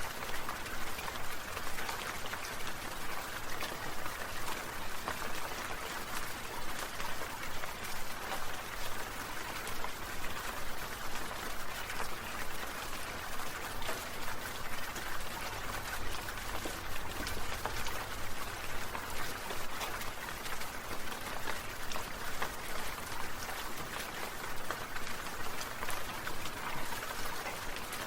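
Water spray from sprinklers pattering steadily like rain, a dense hiss of many small droplet ticks.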